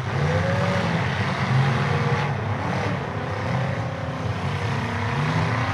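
Several demolition derby cars' engines running and revving together, their pitches rising and falling as the drivers throttle on and off.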